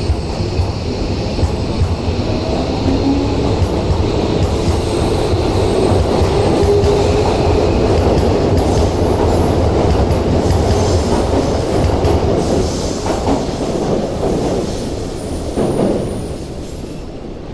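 A Tokyo Metro 13000 series train pulling out of the station. Its traction motors give a whine that rises in pitch as it picks up speed, with wheel clatter and some squeal on the rails. The sound fades away near the end as the train leaves.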